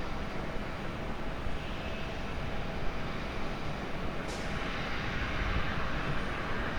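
Airliner jet engines running, a steady rushing noise with a few faint whining tones; the hiss grows a little stronger after about four and a half seconds.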